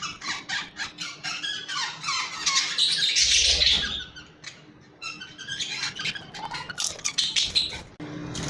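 Budgerigars chattering: rapid high squawks and chirps, with a short lull about four seconds in.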